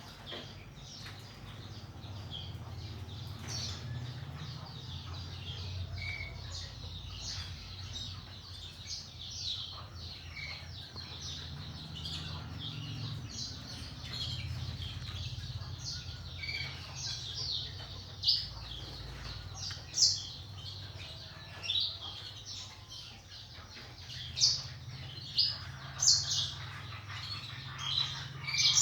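Many caged canaries and black-throated canaries chirping and calling in quick short notes, with several louder sharp notes in the second half, over a low steady hum.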